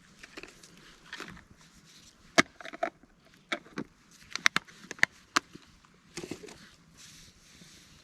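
A run of sharp clicks and knocks, about eight in three seconds, with soft rustling before and after.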